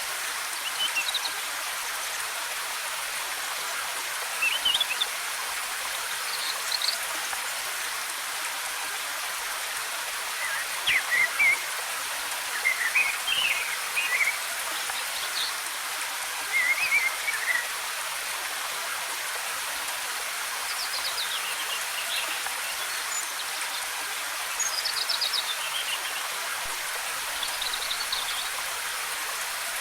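Steady hiss of a waterfall's cascading water, with short bird chirps and song phrases coming every few seconds, the loudest cluster of them in the middle.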